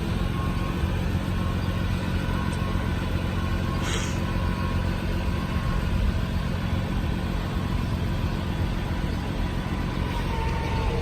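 Cummins 6.7 turbo diesel of a bucket truck running steadily at idle with the PTO engaged, with an intermittent high beep in the first half. About ten seconds in a steady whine sets in as the hydraulics start to move the boom.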